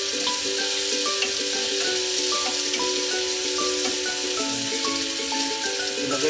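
Green beans sizzling in melted butter in a frying pan while a wooden spatula stirs them. Background music plays underneath.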